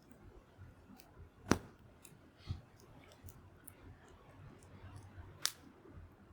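Wood fire crackling: scattered small ticks and two sharp pops, the loudest about one and a half seconds in and another near the end.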